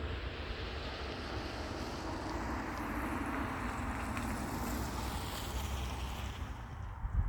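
A Volvo S80's 4.4-litre V8 heard from outside as the car goes past. Engine and tyre noise build to a peak about halfway and then fade, over a low wind rumble on the microphone.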